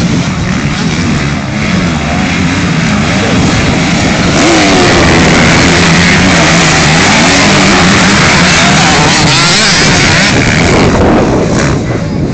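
Several motocross bikes racing, their engines revving and changing pitch over one another. They grow louder for several seconds in the middle as they pass close, then fade.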